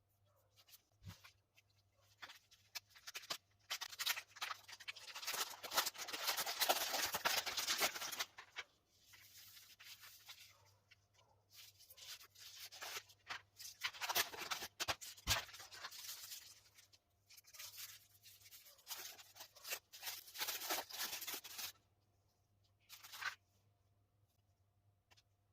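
Cadbury Dairy Milk Silk Oreo chocolate bar's wrapper crinkling and tearing as it is unwrapped by hand, in several bouts of rustling with short pauses between, and one brief rustle near the end.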